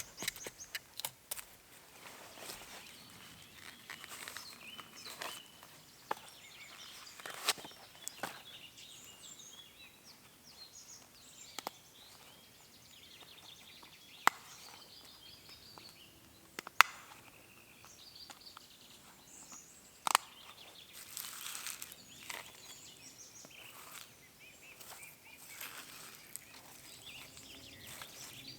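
Quiet outdoor background with scattered sharp clicks from camp handling; the three loudest are spread a few seconds apart, and faint bird calls can be heard now and then.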